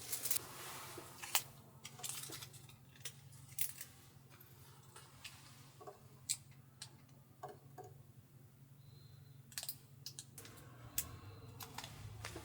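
Scattered light clicks, taps and rustles of small objects being handled close by, irregularly spaced, over a faint steady low hum.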